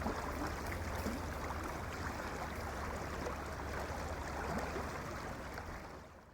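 Snowmelt-swollen river flowing over its bed, a steady light rushing of water that fades out near the end.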